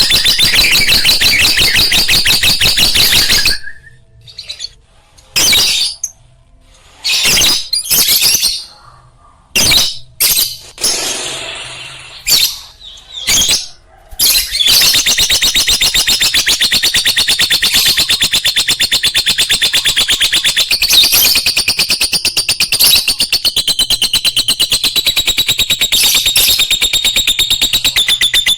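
Lovebird chattering in a fast, unbroken run of high chirps. After a few seconds it breaks into short bursts with quiet gaps, then for the last half it is continuous again.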